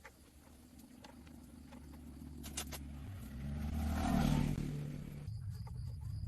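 An engine running, growing louder to a peak about four seconds in, then easing off.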